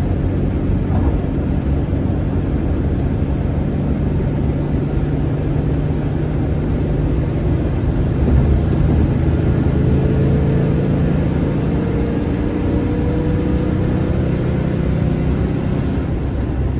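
Steady engine and road rumble of a car being driven, with a faint whine that slowly rises in pitch through the second half.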